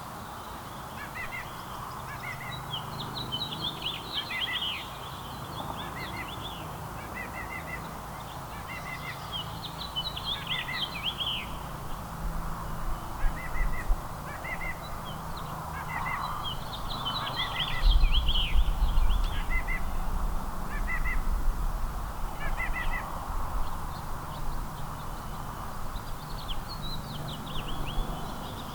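Small songbirds chirping, with bursts of quick twittering song every several seconds. A low rumble runs underneath and grows stronger about two-thirds of the way through.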